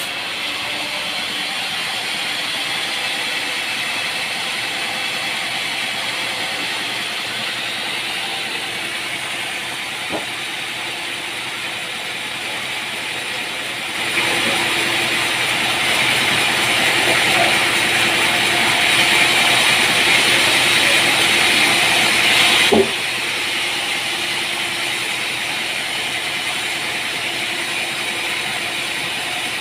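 Sawmill machinery running steadily with a hissing mechanical noise. About halfway through it grows louder for roughly eight seconds, then drops back suddenly with a short knock.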